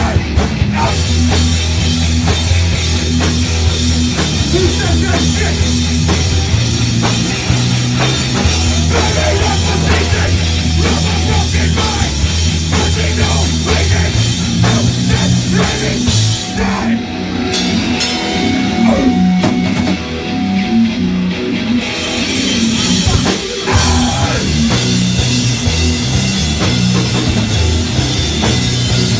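Loud live punk band playing, with distorted guitars, bass and drum kit. For a few seconds past the middle the cymbals drop out, then the full band comes back in.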